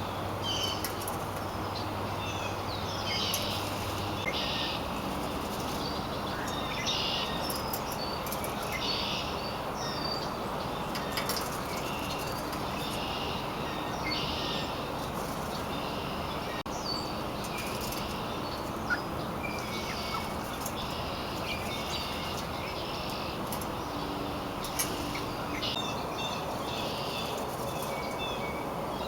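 Birds chirping outdoors, with short calls repeating every second or two over a steady background noise. A low hum is heard at first and stops about four seconds in.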